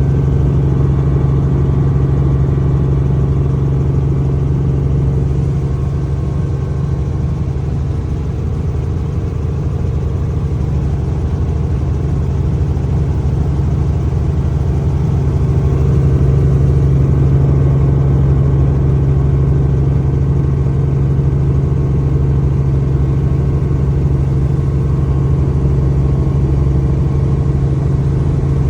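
Helicopter in flight: a loud, steady drone of engine and rotors with a strong low hum, holding constant throughout.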